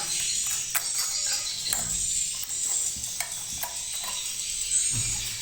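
Swiftlets twittering, a dense, steady high-pitched chatter, with a few sharp clicks over it.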